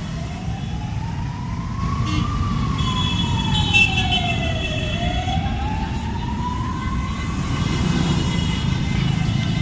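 Siren wailing slowly up and down, each rise and fall taking a couple of seconds and fading out near the end, over the steady low rumble of motorcycle and traffic engines.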